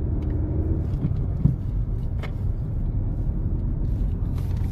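Steady low engine and road rumble heard inside a car's cabin, with a knock about a second and a half in and a click a little after two seconds.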